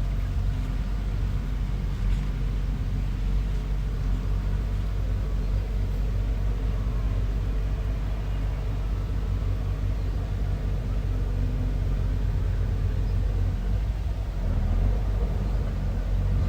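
Bulldozer's diesel engine running steadily with a low rumble.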